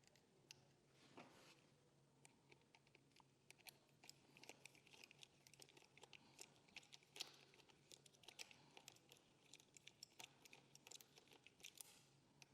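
Faint, quick small clicks and rattles of hand work on a wheelchair's footplate: the strap being fitted back on the leg and its bolt threaded in with an Allen key. The clicks are sparse at first and come thick and fast from about four seconds in, with a brief rustle about a second in.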